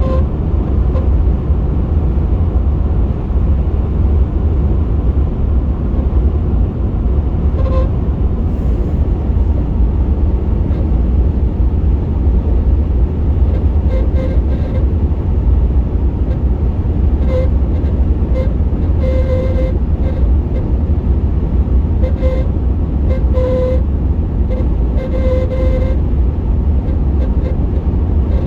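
Truck wind noise while driving: a steady loud rumble and rush, with a whistling tone that comes and goes briefly again and again.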